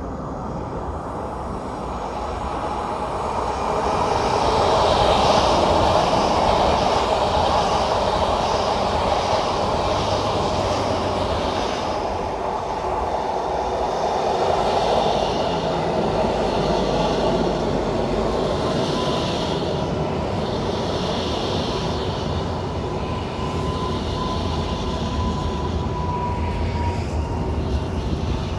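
A train passing through the station: a steady rumble of wheels on rails that swells a few seconds in, with a rhythmic clatter and a thin whine growing toward the end.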